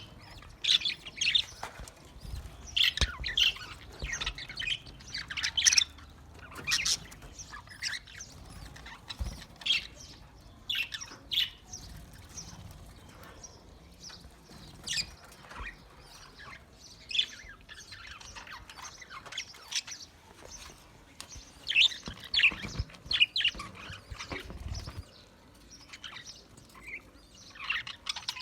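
Budgerigars chirping and chattering: an irregular run of short, high chirps and squawks, with a quieter lull partway through before the calls pick up again.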